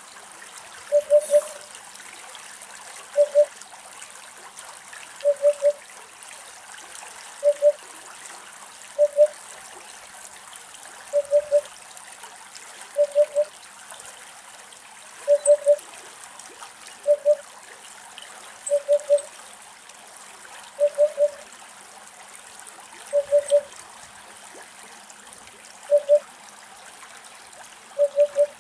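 Eurasian hoopoe singing its low, hollow "oop-oop-oop" call: groups of two or three short notes on one pitch, repeated about every two seconds, over a steady background hiss.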